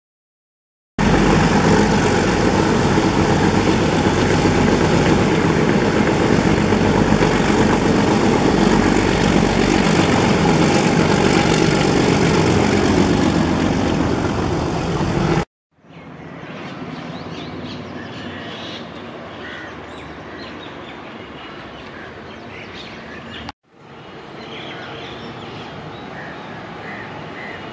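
Passenger train coaches rolling past close by: a loud, steady rumble of wheels on rail that cuts off suddenly about halfway. After that comes quieter outdoor background with birds chirping.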